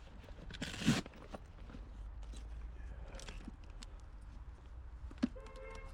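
Faint handling noises of tools being picked up: a brief rustle about a second in, scattered light clicks and knocks, and one sharp click followed by a short tone near the end.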